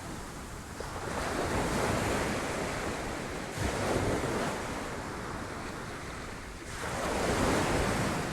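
Sea waves breaking against rocks, surf swelling and washing back in three surges a few seconds apart.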